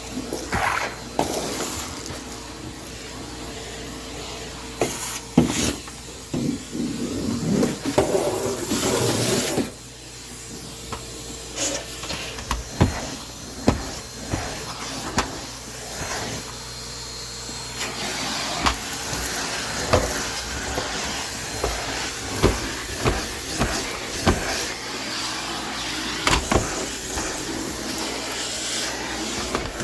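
Household vacuum cleaner running steadily over a crumb-strewn floor, with many sharp clicks and knocks from debris and objects through it. The level dips briefly about ten seconds in.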